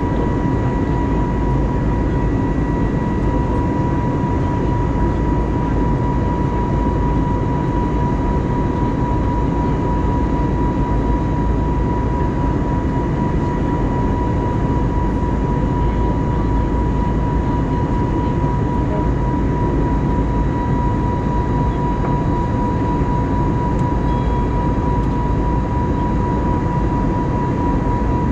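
Airbus A320neo cabin noise in the climb: a steady roar of its CFM LEAP-1A engines and the airflow, with a thin steady high tone running over it.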